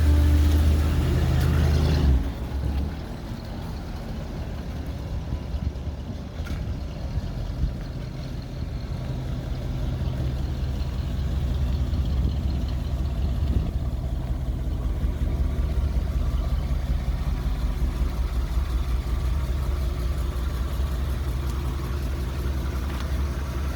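The 1965 Ford F100 pickup's engine running steadily, a low engine sound that is louder for the first two seconds and then settles to an even level.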